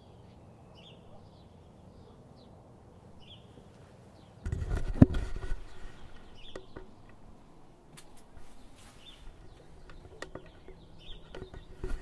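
Birds chirping in short, repeated calls over a quiet outdoor background. About four and a half seconds in, a sudden loud rumble with a sharp thump lasts a second or two, followed by a few scattered clicks.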